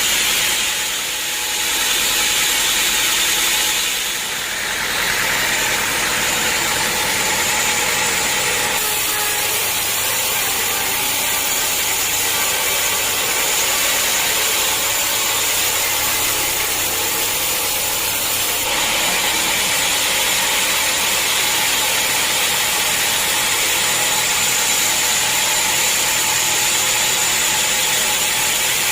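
Sawmill saw running steadily as it cuts through a hard acacia log, dipping briefly twice in the first few seconds.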